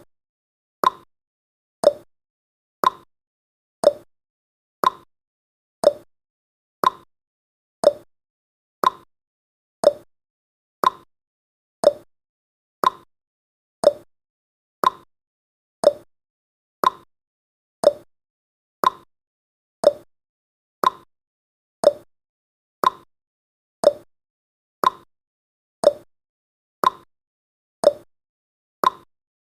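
Countdown timer's clock-tick sound effect: one short tick each second, in a steady, even rhythm.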